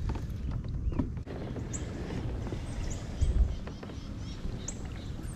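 Low wind rumble on the microphone, with a few short, high chirps from birds.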